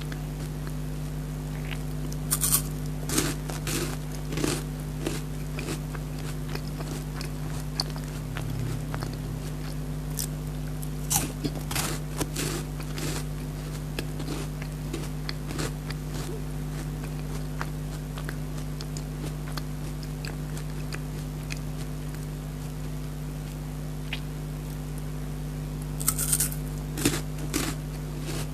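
Close-miked biting and chewing of a Perk chocolate-coated wafer bar: crisp crunches in three bunches, about two, eleven and twenty-six seconds in, with quieter chewing between, over a steady low hum.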